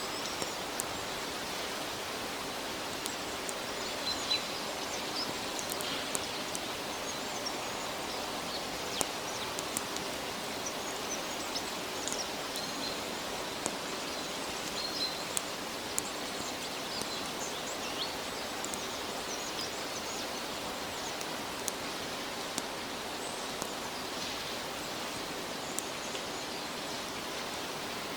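Steady rain falling in a forest, a continuous patter with scattered sharp drip ticks and a few faint, short, high bird chirps.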